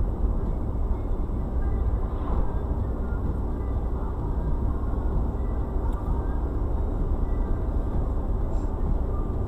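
Steady low rumble of road and engine noise inside a moving car, with no sharp knocks or changes.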